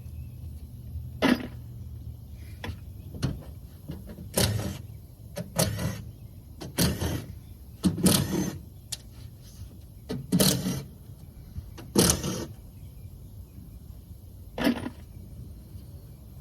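A power tool run in about eight short, irregularly spaced bursts, typical of screws being driven out during the teardown of an air-conditioning unit. A low steady hum is also heard in the first few seconds.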